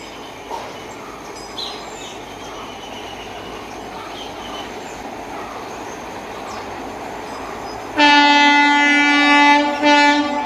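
Steady running noise of a passenger train heard from on board; about eight seconds in, a loud locomotive horn sounds in two blasts with a short break between them.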